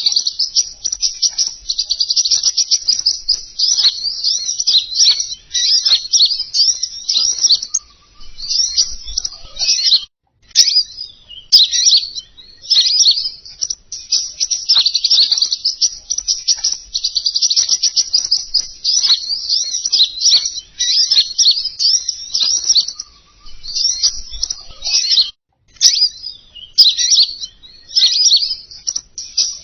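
Small songbird, the 'King Konin' of bird-trapping lure calls, singing a fast, high, chattering trill almost without pause. It breaks off briefly twice, with a click at each break, as the recording loops.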